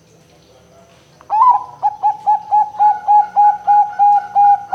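Perkutut Bangkok (Thai-bred zebra dove) singing: about a second in, a loud run of short coos, roughly four a second, that runs into a longer drawn-out note at the end.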